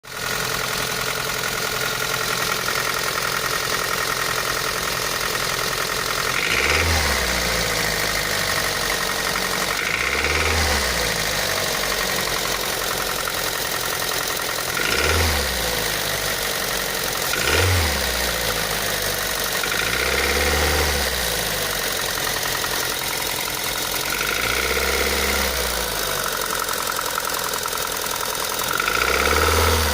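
Daihatsu Pyzar engine idling with a knock, blipped to brief higher revs seven times, every few seconds.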